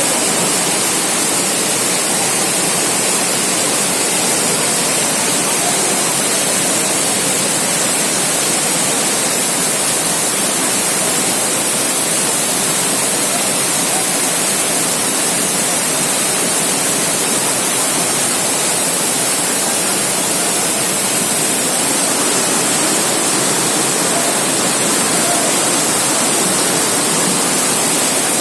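Loud, steady rush of fast-flowing floodwater pouring and churning without a break.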